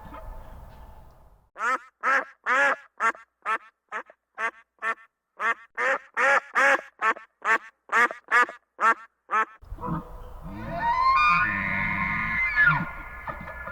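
A duck quacking in a fast, even series of about twenty short quacks. Near the end it gives way to a noisier recording with longer, drawn-out animal calls.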